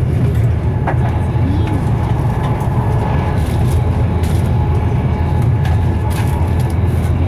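Inside a Class 390 Pendolino electric train running at speed: a steady, loud low rumble of wheels on rail and running gear, with a few faint clicks.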